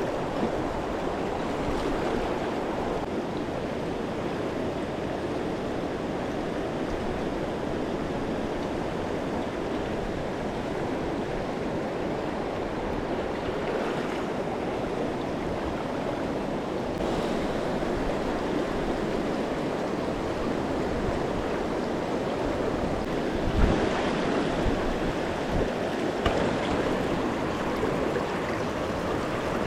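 Steady rush of river water flowing over rocks and shallows, with a few brief thumps about three-quarters of the way through.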